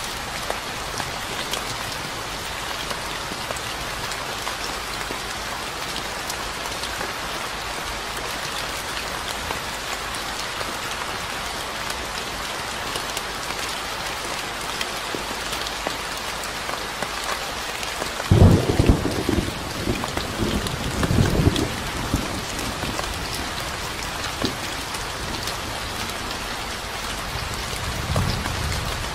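Steady rain falling, with a low rumble of thunder starting about two-thirds of the way through and lasting a few seconds, then a fainter rumble near the end.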